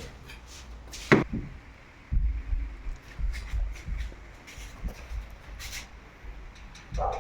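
Handling of plastic shop-vacuum accessories: a sharp knock about a second in, then a run of dull thumps with scattered clicks and rustles as the parts are moved about and set down.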